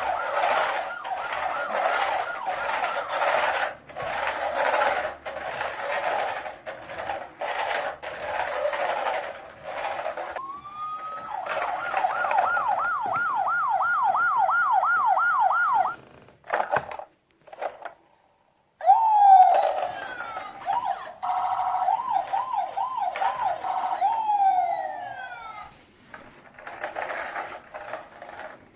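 Electronic toy police-car siren sounds with rattling clicks. A quick rising-and-falling wail repeats two or three times a second, cuts off a little past halfway, and after a short gap a different set of siren sweeps and falling glides follows.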